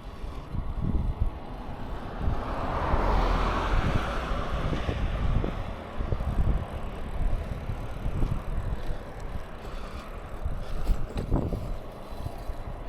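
Wind buffeting the microphone during a bicycle ride, a low rumble with scattered small knocks. A louder rush swells up about two seconds in and fades a few seconds later.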